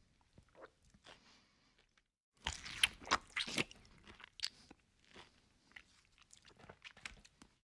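A person chewing and crunching food close to the microphone: faint clicks at first, then a burst of loud crunching about two and a half seconds in that lasts about a second and a half, then scattered softer bites. The sound cuts off suddenly near the end.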